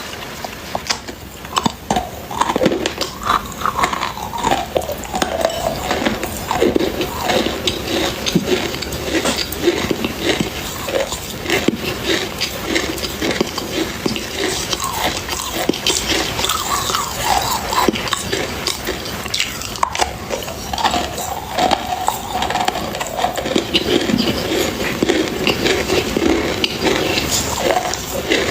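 Loud crunchy chewing and biting, a dense run of irregular crunches with short pitched sounds mixed in.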